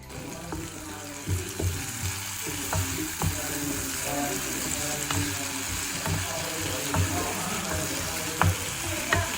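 Pakoras deep-frying in hot oil, a steady sizzle, with occasional sharp knocks, likely a utensil tapping the pan.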